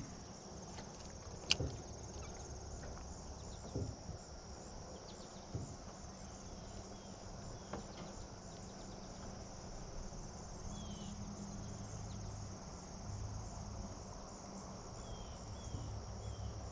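A steady, high-pitched insect chorus, with a low rumble underneath and a few faint clicks.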